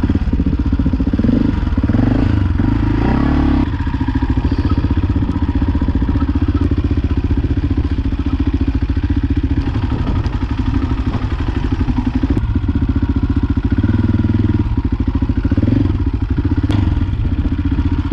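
Off-road motorcycle engine running close to the microphone, its revs rising and falling a couple of times: a bike being ridden on a trail.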